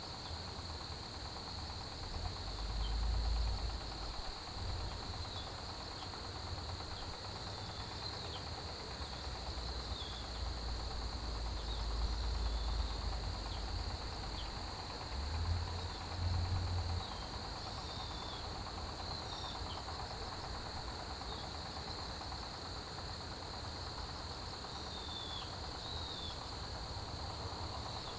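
Chorus of autumn grass insects: a steady high cricket trill with a faster, higher pulsing insect call over it, dotted with short falling chirps. A low rumble swells up a few times underneath.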